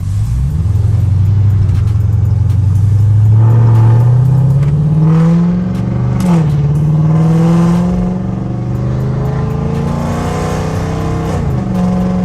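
Dodge Charger R/T's 5.7-litre Hemi V8 accelerating hard, its note climbing steadily, dropping sharply at a gear change about six seconds in, then climbing again, with another shift in pitch near the end.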